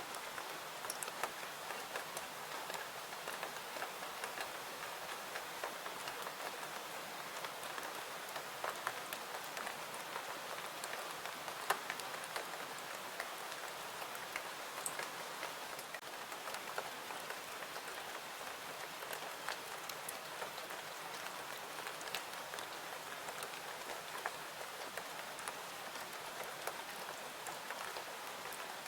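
Steady rain falling, an even hiss of water with scattered sharp clicks throughout.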